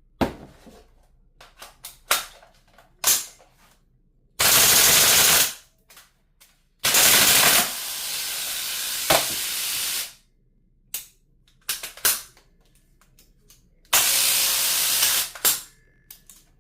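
GBLS DAS gel blaster firing: short single shots and clicks, with three longer noisy bursts of about a second, about three seconds and about a second and a half.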